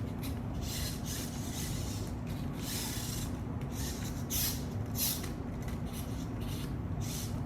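Toys being handled and moved about on a surface: irregular rubbing and scraping sounds over a steady low hum.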